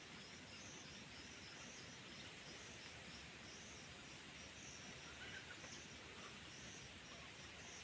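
Near silence: faint outdoor background noise with soft, high chirping that repeats throughout.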